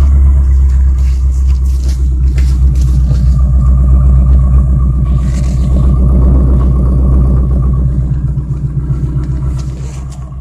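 Car engine idling through its exhaust, a loud, steady low rumble with an even pulse. It grows gradually quieter over the last couple of seconds.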